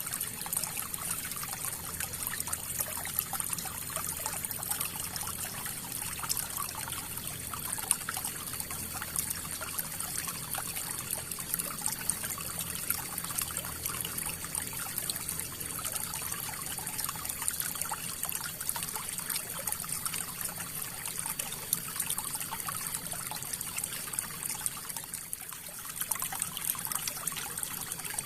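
River water flowing and trickling: a steady rush with fine splashing and bubbling throughout, easing a little near the end.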